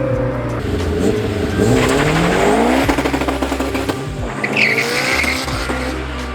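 Honda S2000 engine revving, its pitch rising and falling, with a short tyre squeal about four and a half seconds in. Background music plays underneath.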